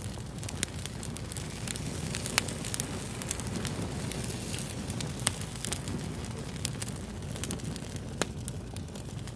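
Fire crackling: a steady low rumble of flames with many sharp pops and snaps at irregular intervals. The loudest snaps come about two and a half and five seconds in.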